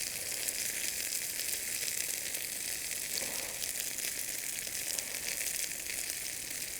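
Chicken pieces sizzling on a hot iron griddle over a Swedish torch log fire: a steady crackling fry with fine pops throughout.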